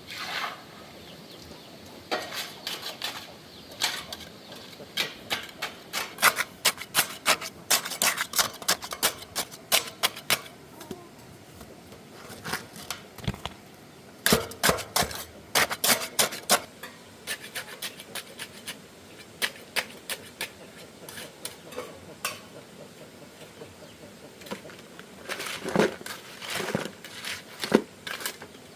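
Irregular clinking and clattering of small hard objects, in quick clusters of sharp knocks with short quiet gaps between.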